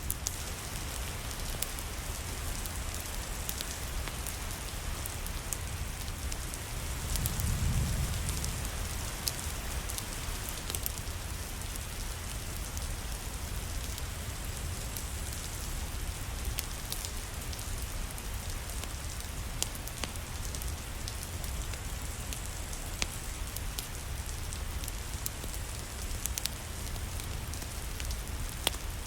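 Steady rain with scattered sharp crackles from a wood fire in a fireplace. A low rumble swells briefly about seven seconds in.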